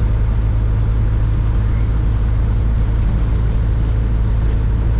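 Steady low drone of a Freightliner FLD120's Cat 3406E diesel at highway cruise, heard from inside the cab, with a constant hiss of road and wind noise over it.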